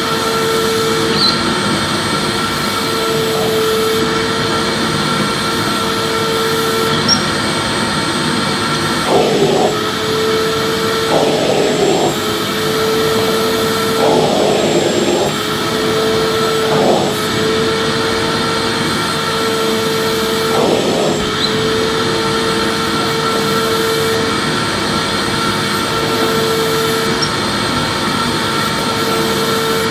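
Electric vacuum cleaner running steadily: an even rushing hiss with a held motor whine, and a few brief surges in the middle.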